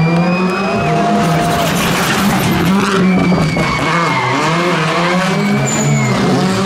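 Rally car driven flat out, its engine revving hard and changing pitch up and down with the gear changes, with a burst of tyre noise about two seconds in.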